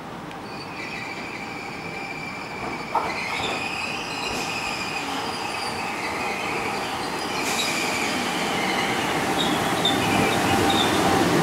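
Trenitalia Jazz electric multiple unit arriving slowly at a terminus platform, its running noise growing louder as it nears, with high steady metallic squealing from the wheels and a single short knock about three seconds in.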